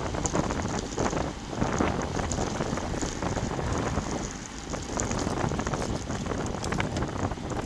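Wind buffeting the microphone of a bike-mounted action camera while riding, a gusting low rumble that swells and eases.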